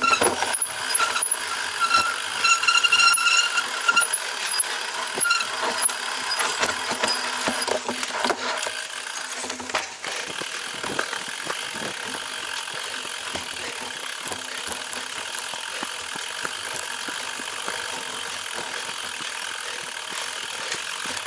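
Cyclocross bike being ridden: steady rushing noise of wind and tyres with knocks and rattles over rough ground, and a high, pitched squeal over the first four or five seconds.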